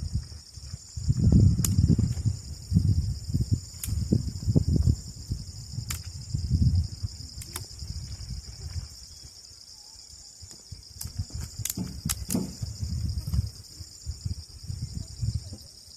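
Steady, high-pitched chorus of crickets and other insects, with irregular low bumps and a few sharp clicks over it.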